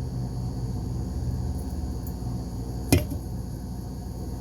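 Steady low background hum with a single sharp click about three seconds in.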